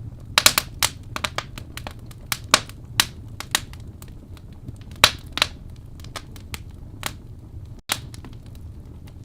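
Wood fire burning in a fireplace: irregular sharp crackles and pops of the burning wood, several in quick succession in the first second, over a low steady rumble of the flames.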